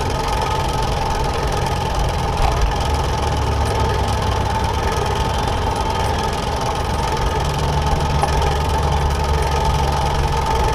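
Motorcycle engine running steadily while riding, its low drone shifting slightly about seven seconds in.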